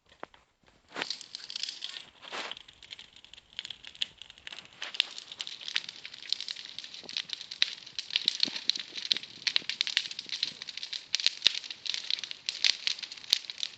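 Large bonfire crackling: dense, irregular sharp pops and snaps starting about a second in.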